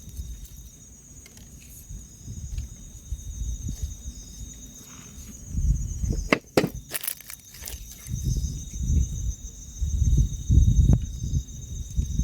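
Insects chirring steadily in a high, pulsing drone, over low rumbling noise that swells and fades. A few sharp clicks come about six to seven seconds in.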